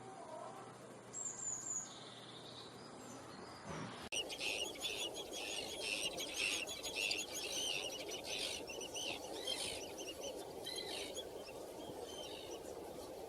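Small birds chirping: a couple of separate high calls, then, after a sudden change in the background about four seconds in, a dense chorus of quick high chirps that thins out toward the end.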